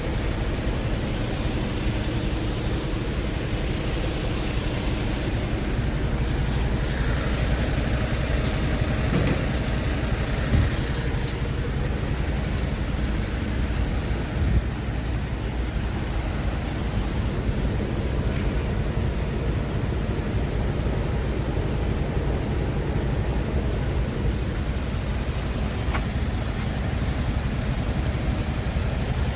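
Scania R tractor unit's diesel engine running steadily, with a few brief clicks.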